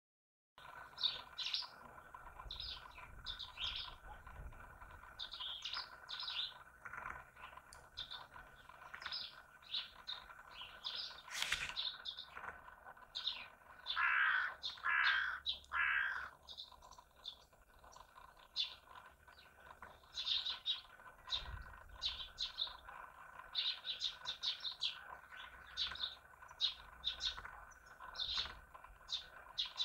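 Songbirds chirping, many short high calls in quick runs, with three louder downward-sliding calls about halfway through and a single sharp click just before them.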